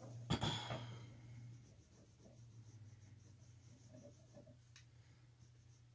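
Faint scratching of a coloured pencil on paper, with a single sharp click about a third of a second in, over a low steady hum.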